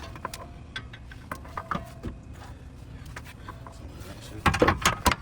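Metal tools and car parts knocking and clinking during axle work, with scattered single clicks and then a quick burst of loud rattling clanks near the end.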